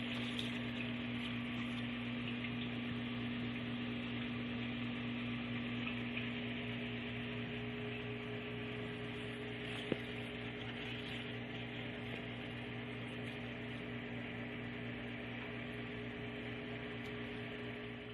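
A steady low hum with a hiss over it, and a single click about ten seconds in.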